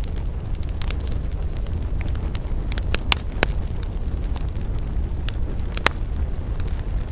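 Campfire burning: a steady low rumble of flames with scattered crackles and sharp pops of burning wood, the loudest pops about three, three and a half and six seconds in.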